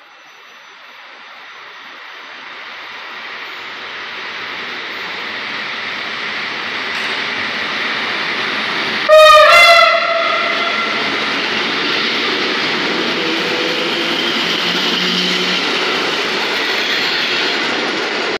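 An EN57 electric multiple unit approaches, its running noise growing steadily louder. About halfway through it sounds one short, loud horn blast as it draws level. It then runs past with steady rolling noise.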